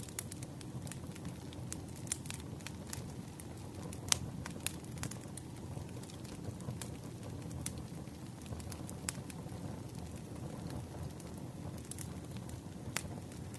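Campfire burning: a low steady rumble of flames with irregular sharp crackles and pops of burning wood, one louder pop about four seconds in.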